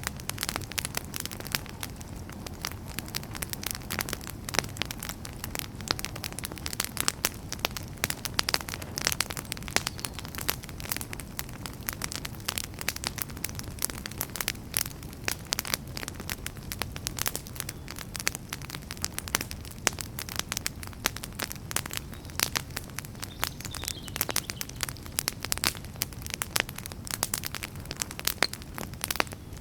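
Wood fire burning in a fireplace, logs crackling and popping in dense, irregular snaps over a steady low rumble of the flames.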